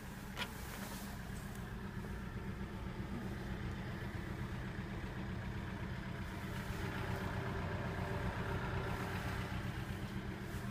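GM Daewoo Gentra's engine idling steadily, heard from inside the car's cabin, with a single light click about half a second in.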